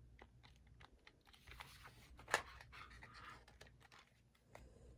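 Faint clicks of alarm clock buttons being pressed, scattered and irregular, with one sharper click a little past two seconds in.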